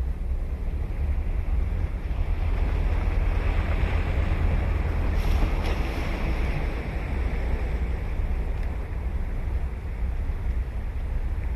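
Ocean surf on a beach: a wave breaks and washes in, swelling about three seconds in and easing off a few seconds later, over a steady low rumble of wind on the microphone.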